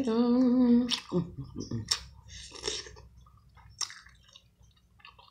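A hummed "mmm" of enjoyment for about a second, then wet chewing and lip-smacking as sauce-coated seafood-boil food is eaten close to the microphone, the smacks thinning out toward the end.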